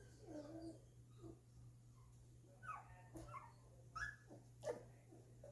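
Two-week-old golden retriever puppies whimpering and squeaking faintly: a string of short, high squeaks, several falling in pitch, with a couple of louder ones near the end.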